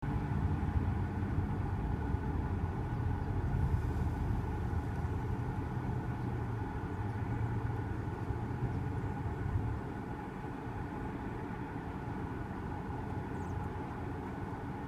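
A running engine's steady low rumble, which eases off about ten seconds in.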